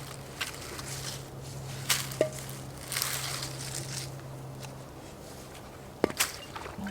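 Footsteps and handling noises: scattered knocks and rustling, a short high ping about a third of the way in and a sharp click near the end, over a low steady hum that stops about two thirds of the way through.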